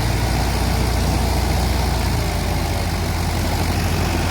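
Diesel tractor engine running under load as the tractor tries to climb a steep slope. It runs steadily, with a shift in its low note about halfway through.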